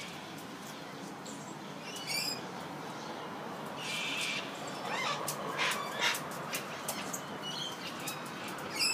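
Birds calling with short, sharp chirps and a harsh screech, along with a run of quick clicks and taps in the middle.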